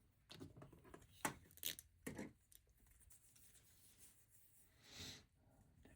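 Faint clicks and taps of plastic LEGO bricks being handled and pressed together, several in the first two seconds, then a soft rustle about five seconds in.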